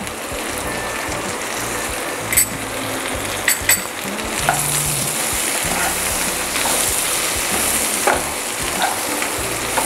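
Potato and aubergine pieces sizzling in hot oil in a frying pan. A wooden spatula stirs them, with a few short clicks against the pan, and the sizzle grows a little louder about halfway through.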